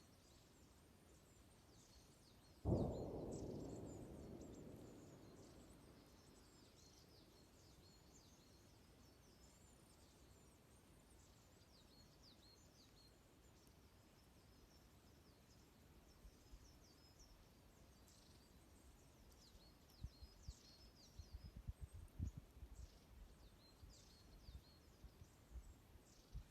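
Faint chirping of many small birds, short high calls throughout. About three seconds in, a sudden rushing noise fades away over a few seconds, and near the end a few soft crackles of the fire come through.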